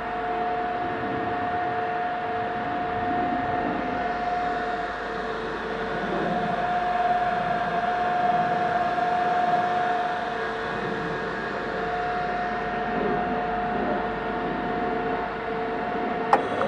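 Okamoto machine tool running steadily, its motor giving a constant two-note whine over mechanical running noise, with one sharp click near the end.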